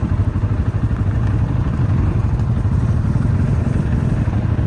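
ATV engine running steadily while riding, a loud, even low rumble.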